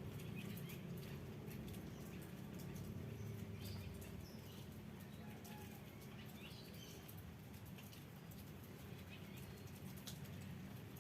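Faint village ambience: scattered small-bird chirps over a low steady hum.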